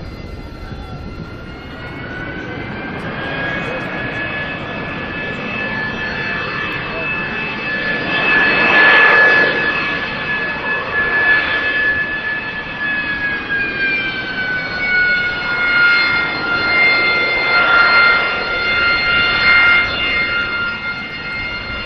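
AV-8B Harrier II's Rolls-Royce Pegasus turbofan running with a high, steady whine over a jet rush. The whine rises in pitch a few seconds in, holds, then drops back about two-thirds of the way through, while the loudness swells and ebbs.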